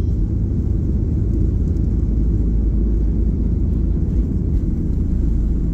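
Steady low rumble of an airliner's cabin, heard from a window seat with the jet engines running.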